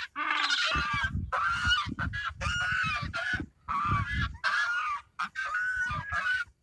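Farm fowl calling: a quick run of a dozen or so short, harsh calls with brief gaps between them.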